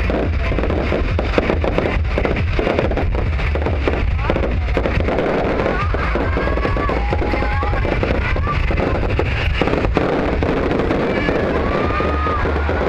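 Fireworks bursting in rapid, continuous bangs, with music playing at the same time.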